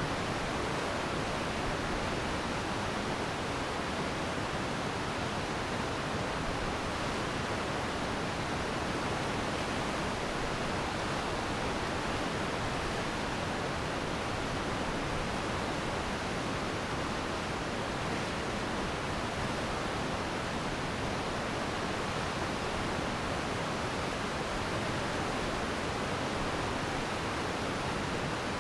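Glacier meltwater stream rushing steadily over rocks, an even, unbroken wash of water noise.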